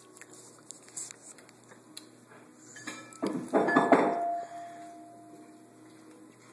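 Tableware clattering: a few light clicks, then a burst of knocks about halfway through, with one piece left ringing for about two seconds.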